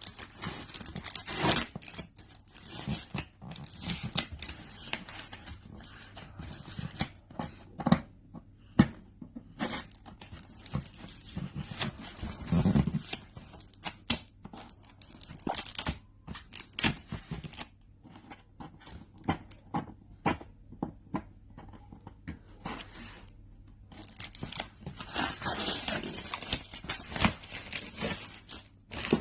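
Packing tape being peeled and torn off a cardboard box, in irregular rips and crackles with short pauses between them.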